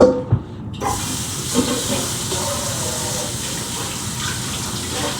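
A couple of knocks, then from about a second in a steady rushing hiss of running water.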